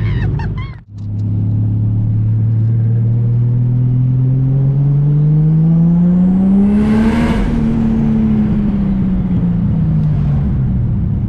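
Car engine accelerating, its pitch climbing steadily for about six seconds to a peak with a surge of noise, then falling away as the car passes and draws off.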